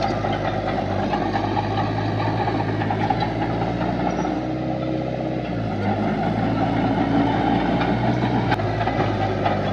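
Heavy earthmoving machine's diesel engine running steadily, its note shifting briefly about halfway through.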